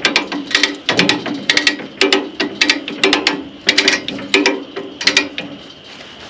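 Hand ratchet being worked in repeated strokes, with sharp clicks about twice a second that stop about five and a half seconds in.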